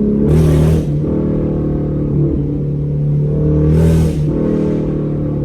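Car engine idling through a freshly fitted aftermarket exhaust with an H-pipe, blipped twice: once right at the start and again near the middle, each rev brief and louder.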